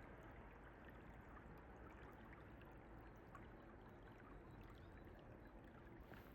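Faint, steady rush of a flowing stream, with small scattered splashes and drips.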